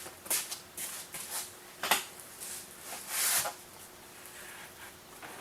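Wooden knocks and clunks as the chicken tractor's lever-mounted wheels are flipped over, lifting the coop off the ground. There is a sharp knock about two seconds in and a short scrape a little after three seconds.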